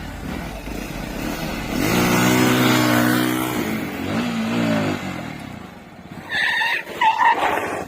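Motorcycle engine revved hard and held high for about a second and a half, easing off, then revved again, as the clutch is let out suddenly to drive the bike through mud. Two short high-pitched sounds come near the end.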